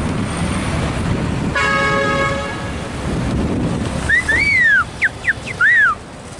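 Street traffic rumbling, with a vehicle horn honking once for about a second, about one and a half seconds in. Near the end, loud whistling: a few short notes that rise and fall.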